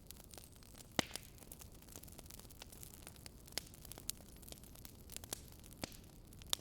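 Crackling wood fire: a soft steady hiss with irregular sharp pops and snaps, the loudest about a second in and several more in the second half.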